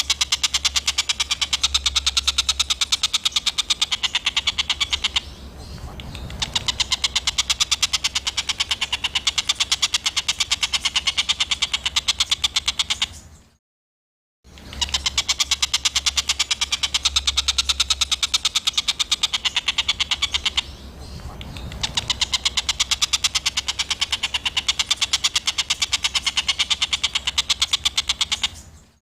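Recorded songbird tutor track of harsh, rapid-fire chattering calls, a fast unbroken train of sharp high notes. The same loop plays twice, with a second-long silent cut about 13.5 seconds in, over a faint low hum.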